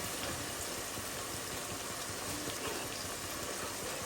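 Onions frying in oil in a pan, a steady sizzle.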